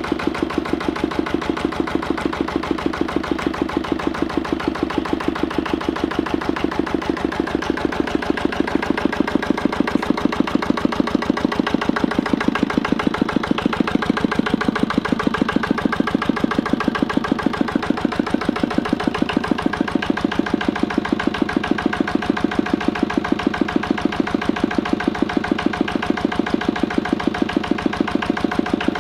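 Lister LD1 single-cylinder diesel stationary engine running at a slow, steady idle with an even beat of about two firing strokes a second, getting slightly louder about eight seconds in. It is running after a cold start, having stood outside overnight in the snow.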